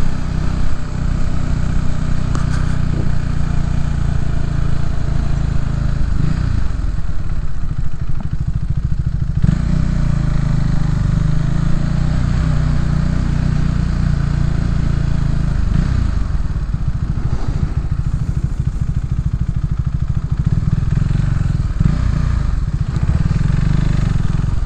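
Motorcycle engine running at street speed, its note rising and falling several times as the rider speeds up and slows down.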